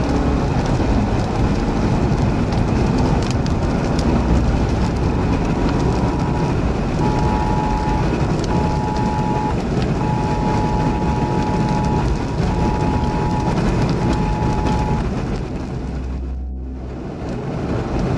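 A car driving through heavy rain: steady rain and road noise heard from inside the vehicle. A two-tone alert sounds in broken stretches from about six to fifteen seconds in.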